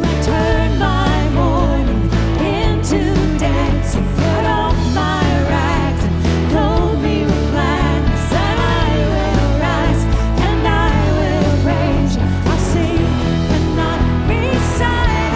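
Contemporary worship song: a lead voice singing over a band with steady bass and drums.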